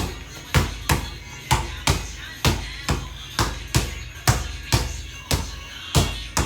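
Basketball dribbled hard in a ball-handling drill, a sharp bounce about every half second in a slightly uneven rhythm, each bounce fading briefly.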